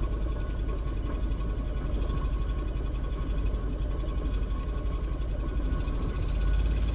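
Small 1.2-litre four-cylinder petrol car engine running steadily at a low, even speed, getting a little louder near the end.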